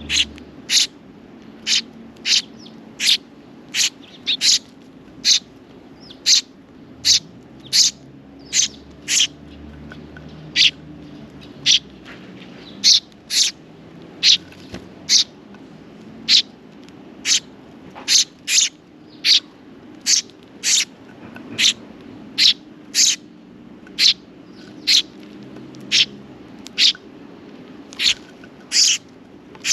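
Sparrow chick giving short, sharp, high chirps over and over, about every three-quarters of a second, the insistent calling of a fledgling begging for food.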